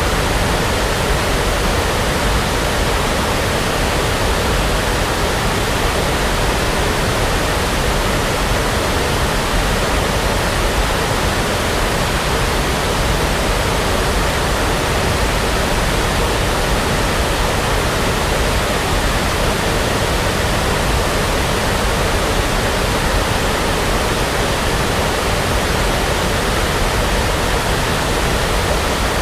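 Steady brown noise: an even, unbroken hiss weighted toward the low end, without any change or event.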